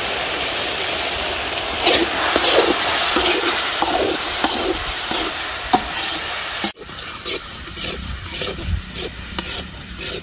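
Chicken masala with onions and herbs sizzling in hot oil in a pan while a ladle stirs and scrapes through it in repeated strokes. About two-thirds in, the sound cuts off abruptly and goes on quieter, with lighter stirring clicks over the sizzle.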